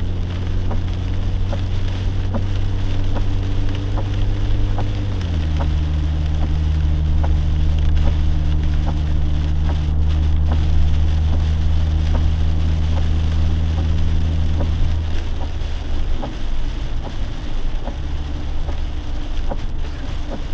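Rain pattering on a lifted Jeep while it drives, heard from inside the cabin over the engine's steady low hum. The hum drops in pitch about five seconds in and falls away about fifteen seconds in.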